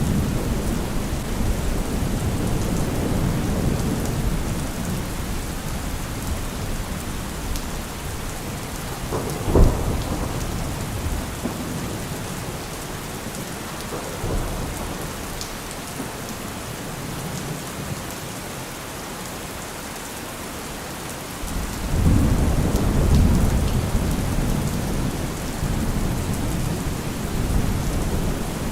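Steady heavy rain with rolling thunder. A sharp thunderclap comes about ten seconds in, and a deep rumble swells up near the end.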